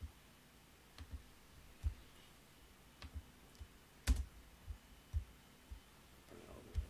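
Scattered clicks and soft low knocks of a computer keyboard and mouse being worked at a desk, with one sharper click about four seconds in.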